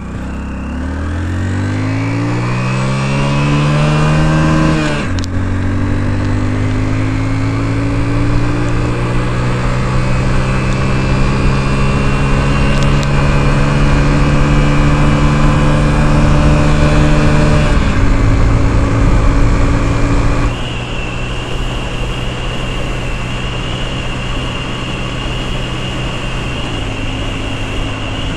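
Hero Glamour 125's single-cylinder engine accelerating hard on a top-speed run: the revs climb steeply for about five seconds, drop at a gear change, climb more slowly in the next gear, drop again at another shift about 18 seconds in, and run steadier and a little quieter after about 20 seconds.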